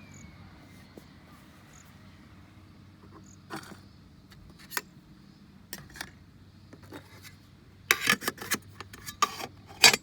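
A series of short scrapes and clicks from something being handled, most of them in two loud bunches near the end.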